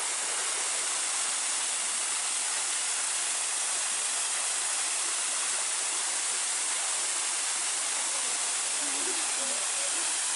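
Steady rushing of a waterfall, water falling and splashing without a break.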